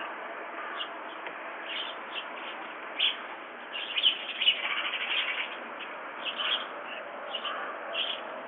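Birds calling at a feeder: short chirps and calls scattered throughout, thickest in a busy run of raspy calls in the middle.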